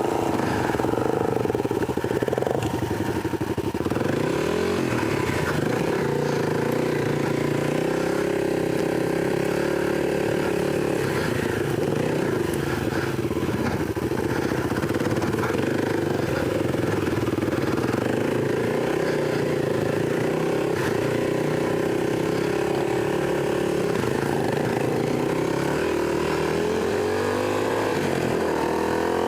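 Kawasaki KLX300 dirt bike's single-cylinder four-stroke engine running steadily at low trail speed, with a couple of brief rises in revs as the throttle is worked.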